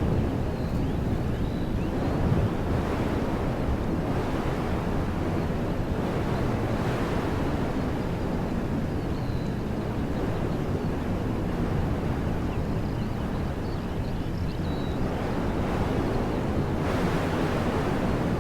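Wind blowing steadily through woodland trees, with gusts swelling a few times and a low rumble of wind on the microphone. A few faint bird chirps come through now and then.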